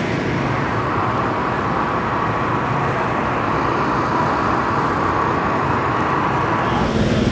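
Steady engine noise with a faint held tone. Near the end it changes to a lower steady hum.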